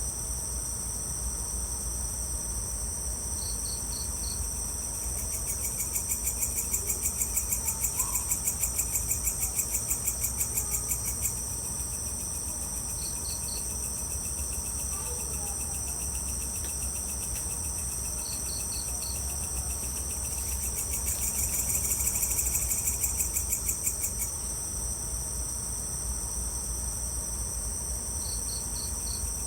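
Evening insect chorus: crickets and other insects trilling steadily in a high, finely pulsing drone. A short group of three or four chirps recurs every five seconds or so, over a low steady hum.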